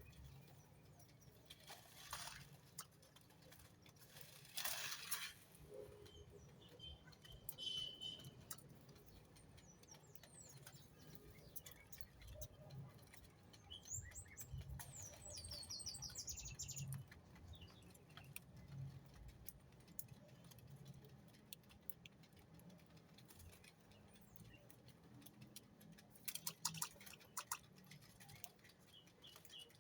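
Small birds moving about, faintly: scattered light taps and clicks, two short rustles in the first few seconds, a brief high chirp, and a quick run of high, sweeping chirp notes about halfway through. A cluster of sharper ticks comes near the end.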